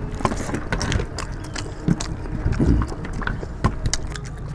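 People eating chicken curry and rice: chewing and wet mouth noises with many small scattered clicks and knocks, and a brief low murmur twice near the middle.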